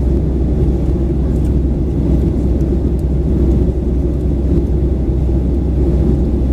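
Steady low rumble of a Boeing 737-900's CFM56-7B engines and airflow heard inside the passenger cabin, typical of the climb after takeoff.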